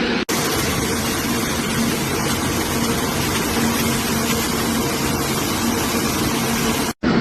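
Light piston aircraft engine running at a steady speed, a constant hum with a broad rush of noise over it. It cuts out briefly just after the start and again near the end.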